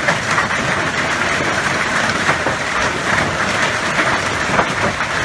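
Hailstones pelting down in a dense, steady clatter of many small impacts.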